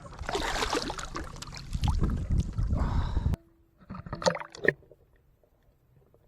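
Water splashing and sloshing at the side of a small boat as a big redfish is handled, stopping suddenly a little over three seconds in; a few sharp knocks follow.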